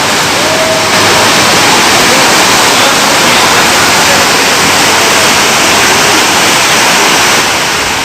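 Loud, steady rush of water during a flash flood from torrential rain.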